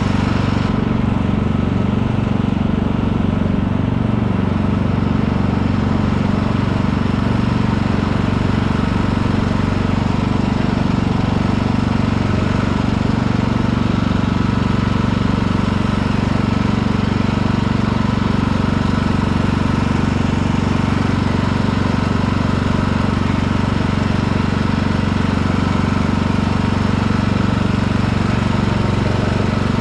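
Riding lawn tractor's engine running steadily under way, mower blades not engaged. The note holds even throughout.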